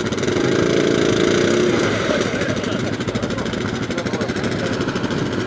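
ATV engine running, with a steady, fast pulsing beat.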